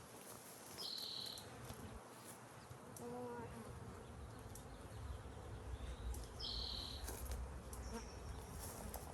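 Honeybees buzzing steadily around an open hive, with two short high-pitched sounds, one about a second in and one near seven seconds.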